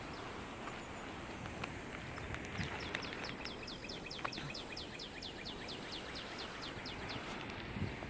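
A bird singing a fast, even trill of short downward-slurred notes, about six or seven a second, lasting some four seconds, over steady outdoor background noise.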